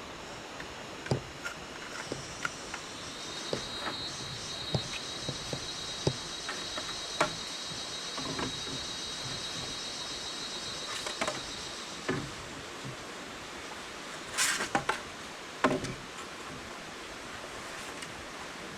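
Insects buzzing with a steady high-pitched drone that starts a couple of seconds in and stops about two-thirds of the way through. Scattered sharp knocks and clicks run throughout, with a louder cluster near the end.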